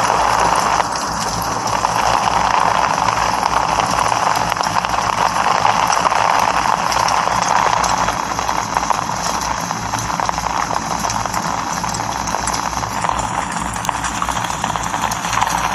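Steady rain: a dense patter of drops striking a hard surface, each hit a small tap, over a continuous hiss.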